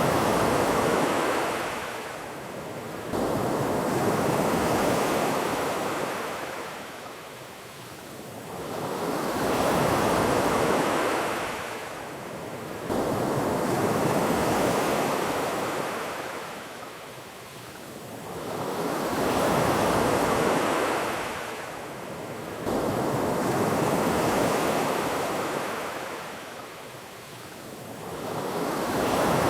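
Ocean surf: waves break and wash in over and over, each one swelling and fading about every five seconds, some rising suddenly.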